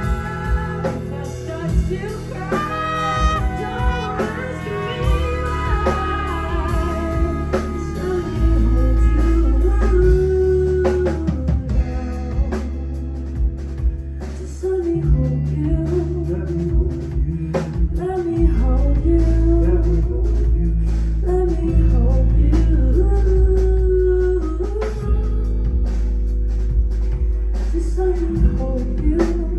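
Live music: a singer performing with a band, with held low bass notes changing every few seconds underneath the melody.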